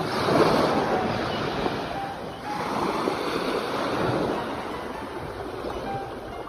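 Ocean surf: waves washing onto a shore, one surge at the start and another about two and a half seconds later, each swelling and then fading.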